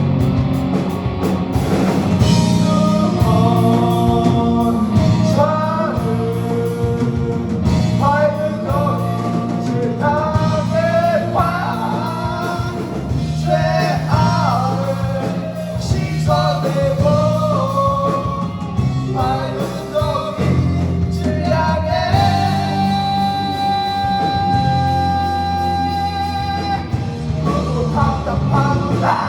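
Live rock-style band music from a stage musical: a melodic lead line in short bending phrases over a steady low accompaniment. About two-thirds of the way through, the lead holds one long note for several seconds.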